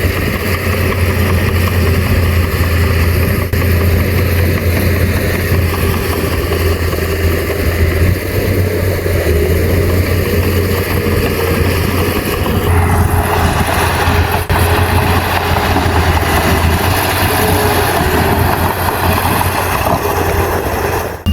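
Heavy diesel engine of earthmoving machinery running steadily under load, with a low steady hum. Its sound changes about thirteen seconds in, turning harsher and hissier.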